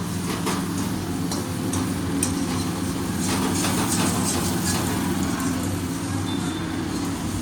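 Kitchen sounds: a steady motor hum, with scattered clicks and clatter and a light crackle over it.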